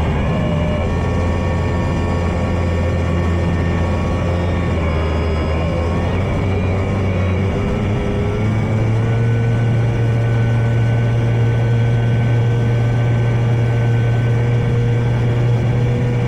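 E-flite Draco radio-controlled electric plane's motor and propeller running, a steady whine that steps in pitch a few times as the throttle changes.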